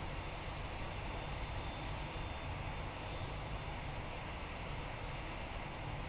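Jet airliner engines running steadily, an even noise with no change in level.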